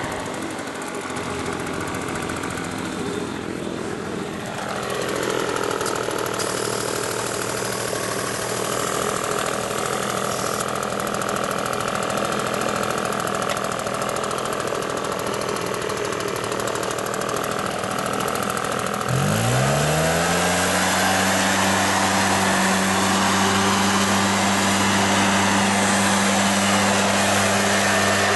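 Husqvarna 150BT backpack leaf blower's two-stroke engine running on its freshly replaced piston and cylinder, with the fan blowing. Engine speed drops about five seconds in; about two-thirds of the way through the pitch rises and then holds steady.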